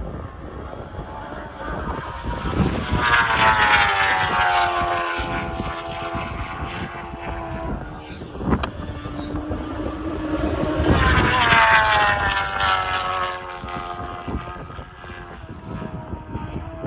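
Two racing superbikes pass at speed, one after the other, about eight seconds apart. Each engine note swells quickly and then drops in pitch as the bike goes by. There is a brief sharp click between the two passes.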